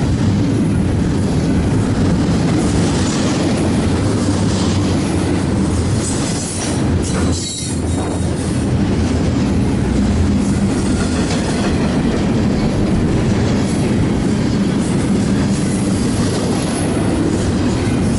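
Intermodal freight train rolling past close by, a loud steady rumble of wheels on the rails with clickety-clack over the joints. About seven seconds in the sound briefly dips and a short high wheel squeal comes through.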